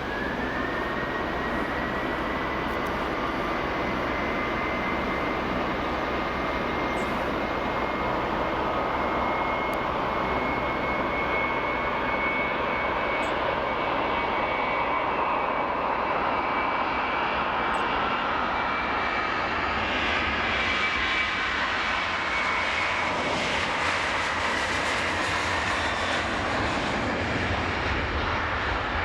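Boeing 737-800's CFM56-7B turbofans at takeoff thrust: a high fan whine rises in the first second and then holds over a steady jet roar. In the second half the sound sweeps and a deep rumble builds as the jet passes.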